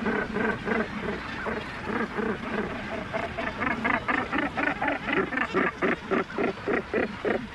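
Cape gannets calling in a breeding colony: a rapid run of harsh, repeated calls that quickens to about five a second from about three seconds in, then stops just before the end.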